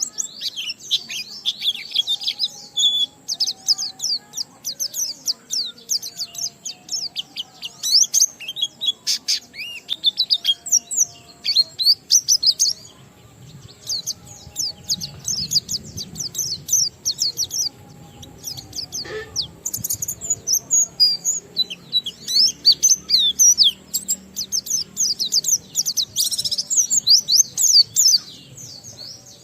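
White-eye (pleci) singing a long, fast, near-continuous run of high twittering notes, with brief pauses about a third and two thirds of the way through.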